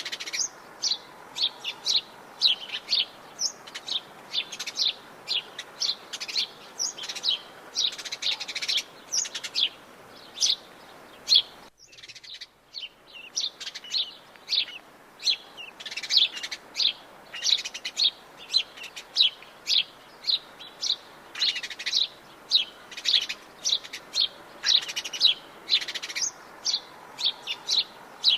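Several birds chirping and singing together, a steady stream of short, high chirps several times a second over a faint background hiss, with a brief drop-out about twelve seconds in.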